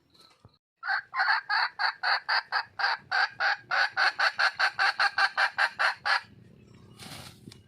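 A junglefowl hen calling: a rapid run of about two dozen sharp, evenly spaced clucks, about four or five a second, lasting some five seconds and stopping abruptly. A mating call to draw a male.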